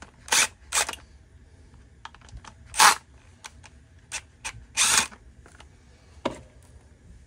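Clicks and clacks of string trimmer parts and tools being handled during disassembly: a string of sharp knocks, the loudest about three and five seconds in, with lighter ticks between.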